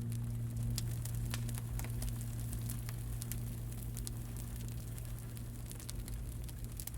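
Campfire crackling, with irregular small pops and snaps, over a steady low hum.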